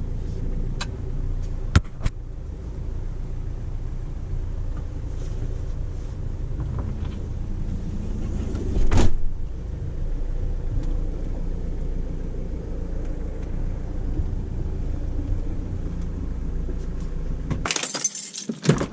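Sprinter van's engine running with a steady low rumble while the van is moved. A sharp click comes about two seconds in and a louder knock about nine seconds in.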